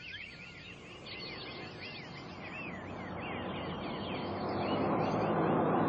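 Birds chirping rapidly and continuously over a rushing noise that swells steadily louder toward the end.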